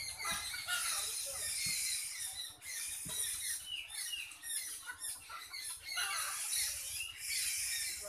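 A flock of small birds chirping and twittering in a dense, overlapping chorus of short, high calls.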